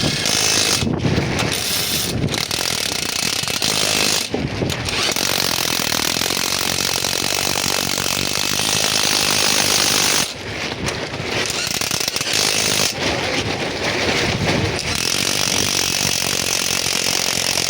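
Fishing boat's engine running loudly with a steady mechanical clatter, dipping briefly about ten seconds in.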